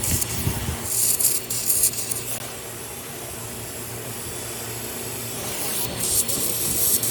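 A hand tool rasping against a battery in short bursts of strokes, over a steady low hum. The strokes are heard for the first couple of seconds, pause, then start again near the end.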